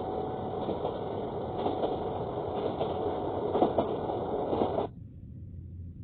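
A train running on the track: a steady rumble with repeated sharp clacks from the wheels. It cuts off abruptly about five seconds in, leaving only a faint low hum.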